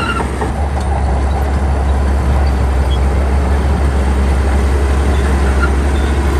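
Heavy diesel engine of earthmoving machinery running steadily: a loud, deep, continuous drone with rough mechanical noise over it.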